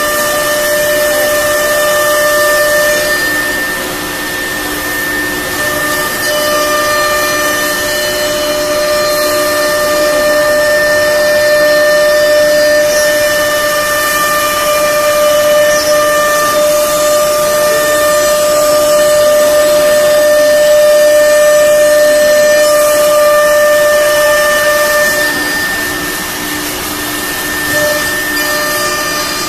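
CNC wood router's spindle running with a loud, steady high-pitched whine over a hiss of cutting. The whine drops out briefly near the start and again near the end.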